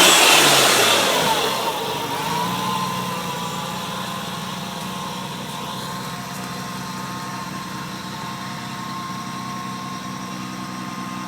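Nissan RB26DETT twin-turbo inline-six engine with its revs falling away after a rev, then settling into a steady idle about two seconds in.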